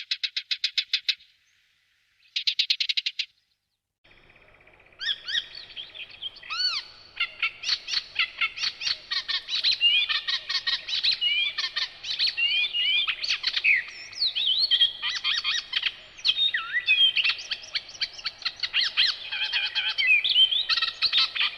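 Songbirds singing in a May woodland. Two short, rapid trills of evenly repeated notes come in the first three seconds; from about four seconds in, a long, varied song of quick whistles, chirps and clicks follows.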